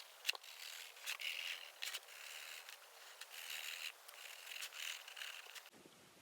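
Pen drawing on a plastic milk carton: a string of short, faint scratching strokes.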